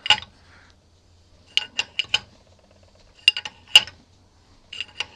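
Steel tools clinking as a 27 mm wrench is fitted to the nut of a homemade prechamber puller on a diesel cylinder head: sharp metallic clicks in small groups of two or three, a few with a short ring.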